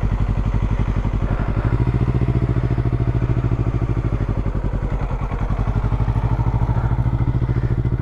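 Motorcycle engine running at low revs with a steady, rapid pulsing beat, its pitch stepping up slightly about two seconds in.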